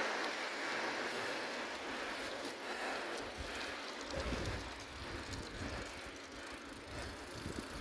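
Bicycle tyres rolling on a wet, slushy road of melting ice, a steady hiss, with wind rumbling on the microphone from about halfway through.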